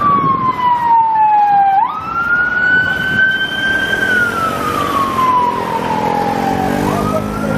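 Siren of a Metropolitan Police BMW X5 armed response vehicle sounding a wail: a single tone slides slowly down, jumps back up, rises, then slides slowly down again before jumping up near the end. A vehicle engine runs beneath it in the second half.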